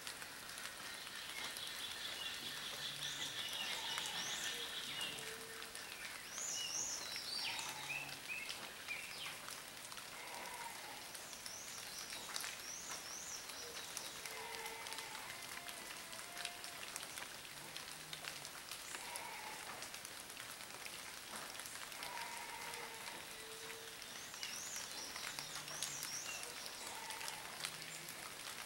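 Steady rain hissing and pattering, with birds calling now and then: short high chirps and a few low notes.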